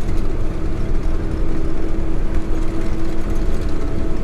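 Prinoth Bison X snow groomer's diesel engine running steadily, heard from inside the cab, with a constant hum held at one pitch over the low engine noise.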